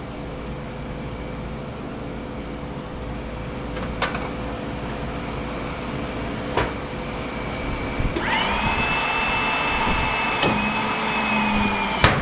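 Steady machine hum with a few clicks. About eight seconds in, an electric motor starts a steady whine as the press squeezes a transformer, and just before the end a sharp crack comes as the welded steel core breaks.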